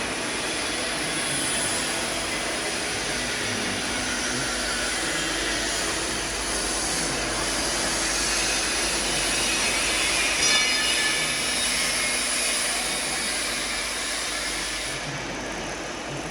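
Steady mechanical noise of a running square-pipe roll forming and welding line (tube mill), with a brief louder high-pitched squeal about ten seconds in.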